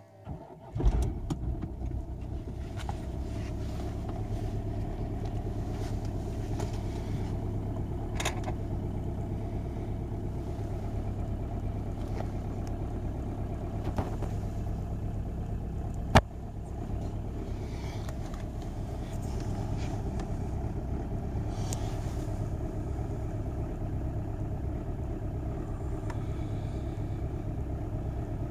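Diesel car engine cold-starting, heard from inside the cabin: a short crank and a sharp bang as it catches about a second in, then a steady idle with a few clicks, one loud click about halfway through.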